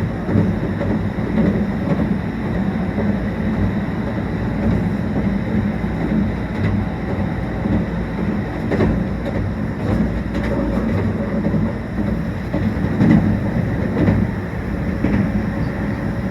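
Meitetsu 1800 series electric train heard from inside the car while running at speed: a steady rumble of wheels on rail, with scattered clicks as the wheels pass over rail joints.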